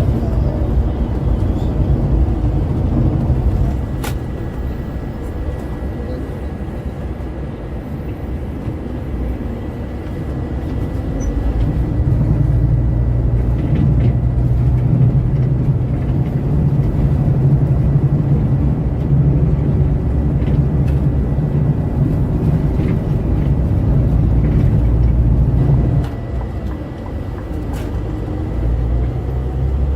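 A Scania K410 multi-axle coach on the move: a steady low rumble of engine and road noise. It is quieter for a few seconds early on, swells louder for a long stretch in the middle, and drops back about four seconds before the end.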